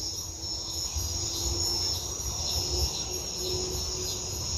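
Night chorus of crickets and other insects: a steady high-pitched trill with a fainter, quicker pulsing above it, over a low rumble.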